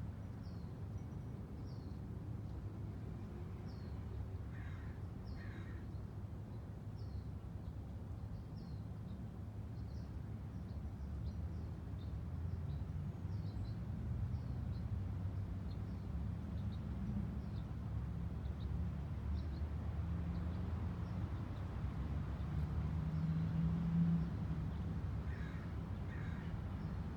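Birds calling: short high chirps repeated throughout, with two pairs of louder, harsher calls, about five seconds in and again near the end, over a steady low rumble.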